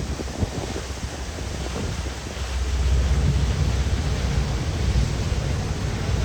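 Wind buffeting the microphone aboard a moving boat, a low rumble over a hiss of water and wind, growing louder about halfway through.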